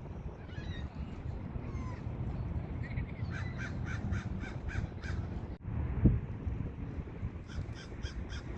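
A crow cawing in a quick series of about eight calls, with a few fainter caws near the end, over a steady low rumble. A single thump about six seconds in.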